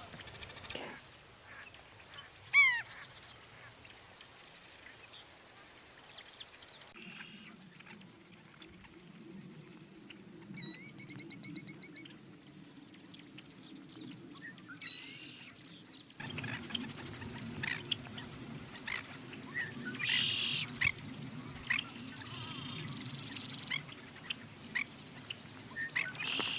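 Wild marsh birds calling: scattered calls throughout, one loud call a few seconds in, a fast run of chirps about eight a second near the middle, and a busy stretch of overlapping calls toward the end.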